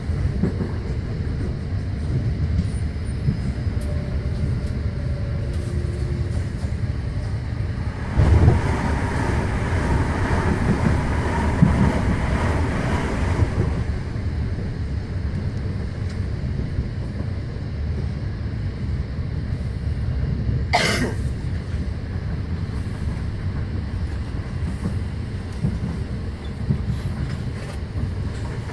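Passenger train running, heard from inside the carriage: a steady low rumble of wheels on track. About a third of the way in it grows louder and rougher for around five seconds, and a brief rising high-pitched sweep comes about two-thirds of the way through.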